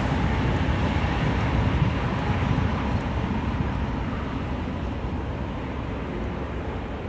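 A train rolling past: a steady rumble of wheels on rail that slowly grows quieter.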